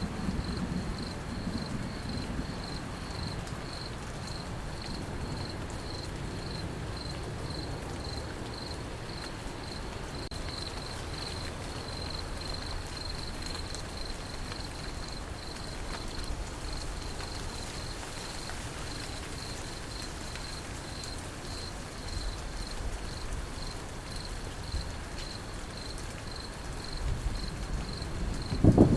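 Crickets chirping in an even, pulsing trill over steady light rain. A low rumble of thunder dies away over the first few seconds, and a new loud peal of thunder breaks in at the very end.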